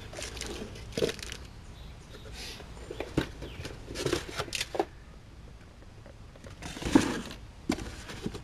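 A package being opened by hand: irregular rustling, crinkling and tearing of packaging, with a sharper crackle about 7 seconds in.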